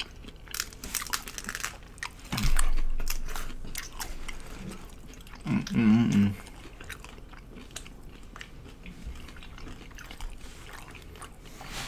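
Close-miked crunching and chewing of crisp nacho and lime hard taco shells: a run of small crackles, a louder crunching bite about two and a half seconds in, then steady chewing. A short hum from a mouth comes near six seconds.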